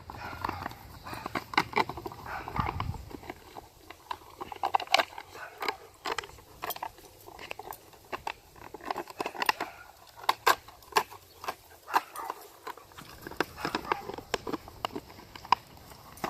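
Puppies playing and moving about, with many short, scattered clicks and scuffles.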